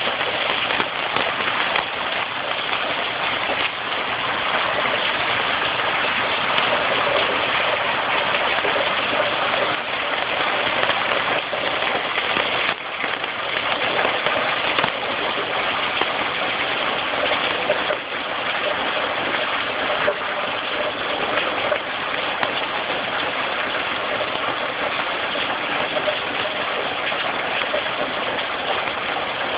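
Heavy tropical-storm downpour, a steady dense hiss of rain pelting the roof and porch.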